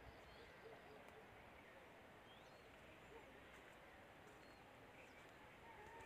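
Near silence: faint outdoor ambience with a few scattered, brief bird chirps.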